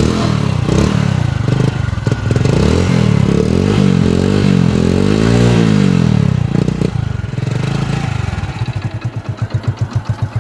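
Hero iSmart 100 cc single-cylinder motorcycle engine running and being revved up and down several times. About eight seconds in it drops back to an even idle.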